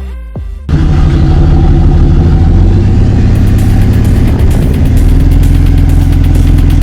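Ford Ranger Wildtrak pickup with sound actuators playing a synthetic V8 engine sound, idling steadily with a deep rumble. It starts suddenly about a second in, cutting off electronic music with falling bass sweeps.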